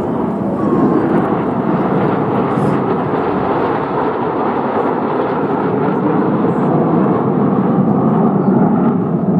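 Aircraft engine noise from a display flight, a steady rumbling noise with no clear pitch.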